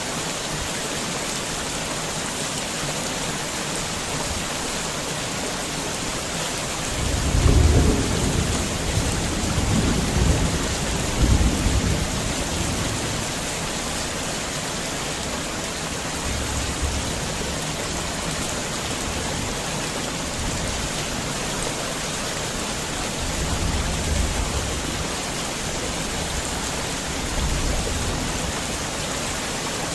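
Heavy rain falling steadily, with a low rumble of thunder lasting several seconds about a quarter of the way in, and fainter rumbles later on.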